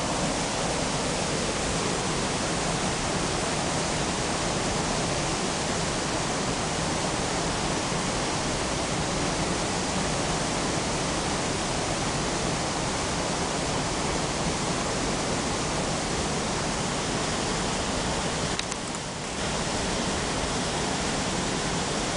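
Waterfall rushing steadily, a dense even roar of falling water, dipping briefly in loudness near the end.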